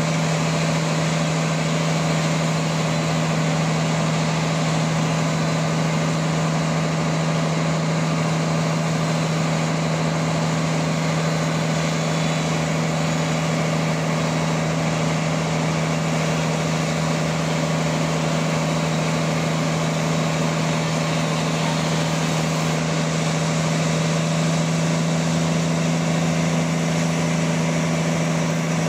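Band sawmill machine running steadily: a constant engine or motor drone with a strong low hum that does not change.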